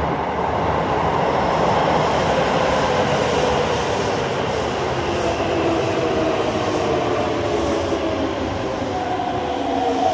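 Keisei Railway Series 3700 electric train pulling into an underground station platform: a loud, steady rumble of wheels on rail, with a falling whine from about halfway through as the train brakes and slows.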